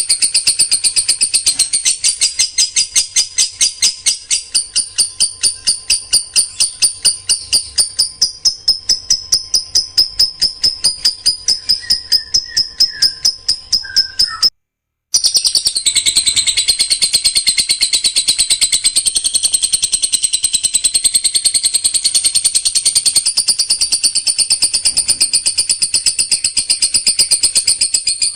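Songbird song from a masteran recording: a fast, unbroken run of sharp, high repeated notes, several a second, that drops out for about half a second halfway through and then resumes.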